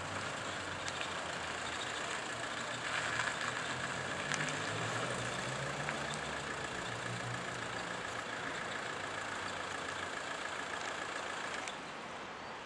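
A train's machinery running steadily at the platform, a low hum under a steady high whine, the sound dropping suddenly near the end.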